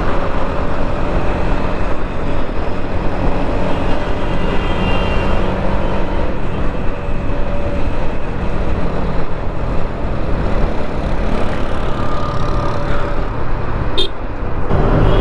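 Motorcycle ride through city traffic: the TVS Apache RTR 160 4V's engine running steadily under a constant rush of road and traffic noise, with a short click near the end.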